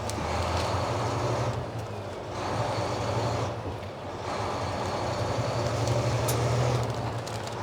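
Semi truck on the road heard from inside the cab: a steady low engine drone under road and wind noise, easing briefly twice.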